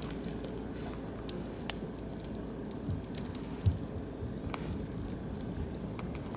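Oak and beech logs burning in an open wood fire, crackling with scattered sharp pops over a steady low hiss. A dull thump stands out about halfway through.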